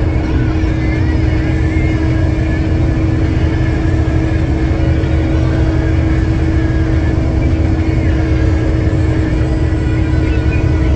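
Truck engine and road noise while driving: a steady low rumble with a constant hum.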